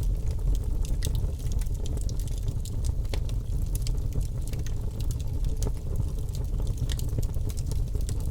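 Birch logs burning in a fireplace: many small sharp crackles and pops, scattered irregularly over a steady low rumble of the fire.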